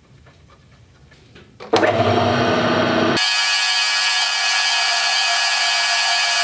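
A few faint handling clicks, then about two seconds in a power tool starts and runs steadily at full speed, working 3/4 inch square metal tubing.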